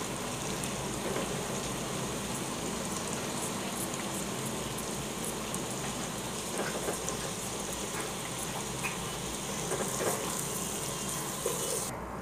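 Chopped mushrooms frying in oil in a pot, a steady sizzle with a few faint ticks in the later part.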